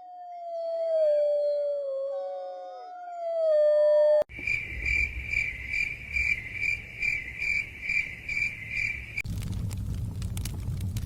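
Several canines howling together in long, overlapping howls that fall in pitch. About four seconds in this cuts off to an insect chirping steadily about twice a second. Near the end that cuts to a low rumble with scattered crackles from a fire.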